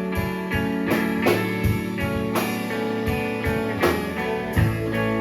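Live band playing an instrumental stretch between sung lines: guitar over bass and drums, with a steady beat.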